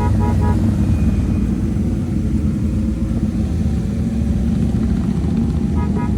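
Steady motorcycle engine and road rumble while riding, with quick horn toots: three short beeps at the start and a couple more near the end.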